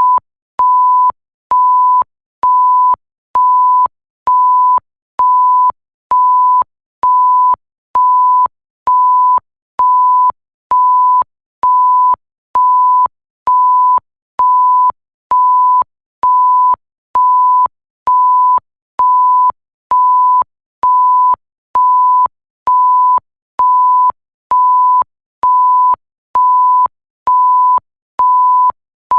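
Censor bleep tone sound effect: one steady high pitch beeping on and off about once a second, each beep lasting most of a second with a short gap between, with a faint click at each start and stop.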